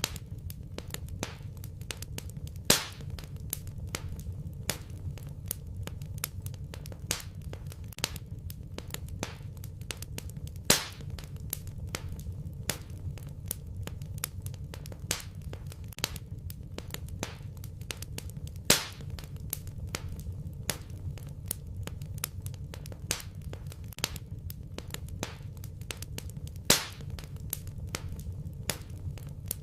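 Wood fire in a fireplace crackling: a steady stream of small snaps over a low rumble, with a louder pop about every eight seconds.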